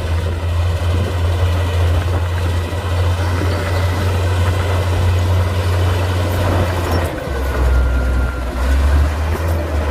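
Komatsu D58P bulldozer's diesel engine running steadily, its low engine note dropping in pitch about seven seconds in.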